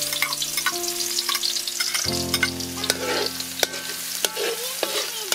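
Chopped garlic sizzling in hot oil in a pan as a spatula stirs it, a steady hiss with scattered sharp pops and clicks.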